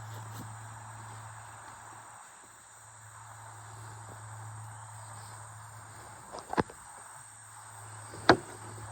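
Rainforest insects, crickets and the like, keeping up a steady high-pitched chorus, with a low steady hum underneath. Two sharp knocks cut through about six and a half and eight seconds in, the second the loudest.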